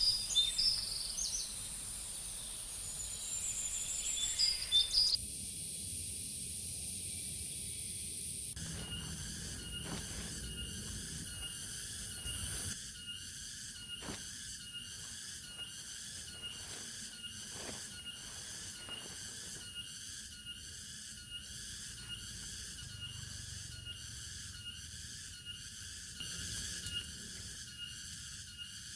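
Forest ambience over a faint high hiss. A few bird chirps come in the first few seconds. From about a third of the way in, a steady insect chorus pulses about twice a second.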